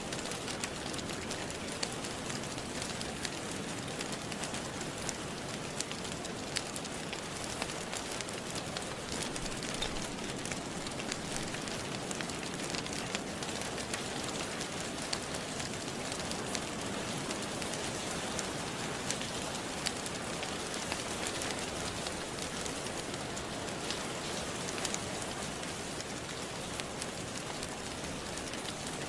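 Steady rain, with the scattered sharp pops and crackles of a wood fire burning in a fireplace.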